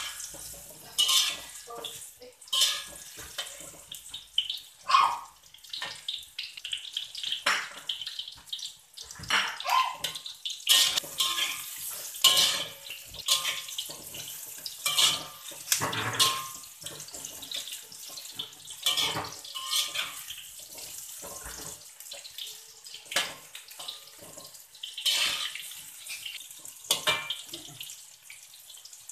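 Tempeh cubes frying in hot oil in a wok, a hissing crackle, with a metal spatula scraping and knocking against the wok at irregular moments as the cubes are stirred.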